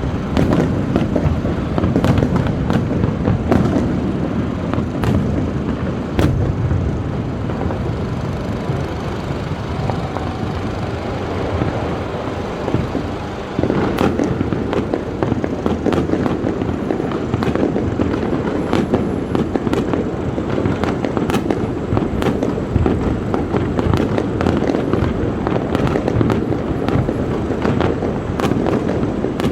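Fireworks display: many sharp pops and crackles over a continuous low booming of bursting shells, growing louder about halfway through.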